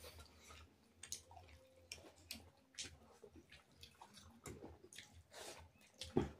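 Faint eating sounds from people eating rice and meat by hand: scattered soft chewing and mouth clicks.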